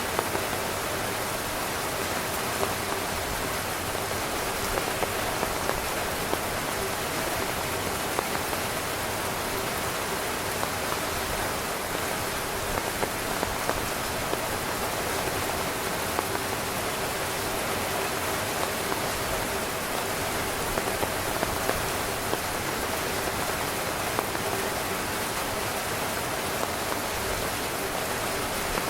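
Steady rain falling on a tent, a continuous even hiss with scattered small drop taps.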